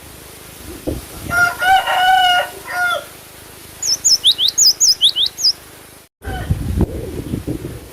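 A rooster crows once in the background, then a cinereous tit (gelatik batu) gives a quick run of about ten high, sharp chirps. Just after the chirps the sound cuts out briefly, and a low rumbling noise follows.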